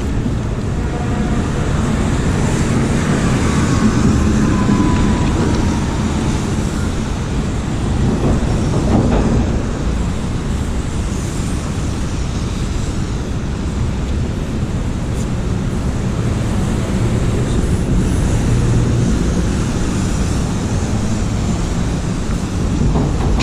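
Train running: a loud, steady rumble and rattle, with a faint falling whine a few seconds in.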